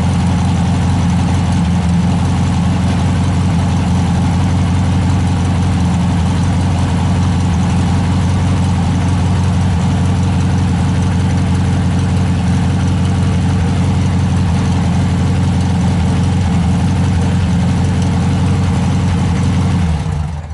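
Air-cooled Volkswagen 1600 dual-port flat-four engine of a 1971 Super Beetle idling steadily through an EMPI GT dual-tip exhaust, a loud deep rumble. The sound stops near the end.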